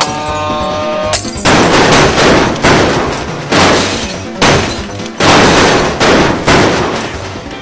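A run of loud crashes, about one a second, each dying away slowly, over background music.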